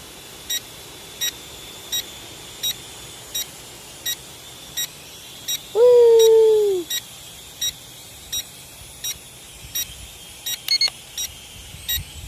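Drone remote controller beeping steadily, a short high beep about every 0.7 seconds. About halfway through, a single loud call lasting about a second slides down in pitch.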